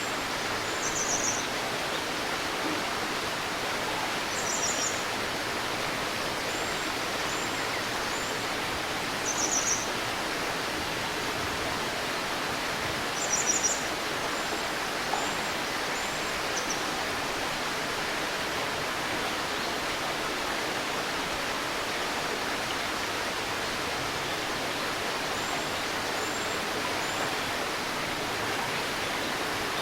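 Steady rushing and babbling of a river, with a small bird's high chirps and short trills now and then in the first half.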